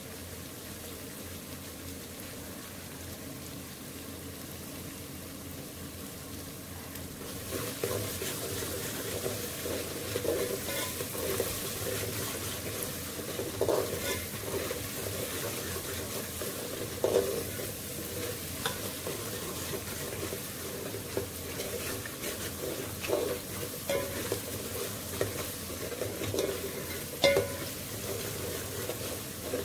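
Onion and spice masala sizzling in hot oil in a metal pot, being fried until it browns. From about seven seconds in, a metal spoon stirs and scrapes through it, with repeated clinks against the pot's side.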